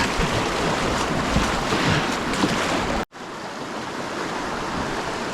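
Rushing, splashing whitewater rapids, with wind buffeting the microphone. About three seconds in the sound cuts off abruptly, and a steadier, quieter rush of water follows.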